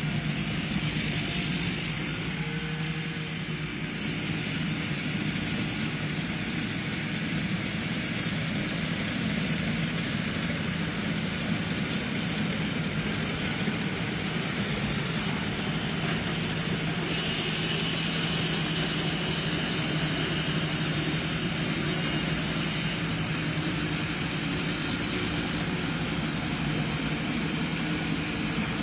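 Combine harvester's engine and machinery running steadily under load. A constant low hum sits under a broad mechanical noise, and a high whine grows louder about two-thirds of the way through.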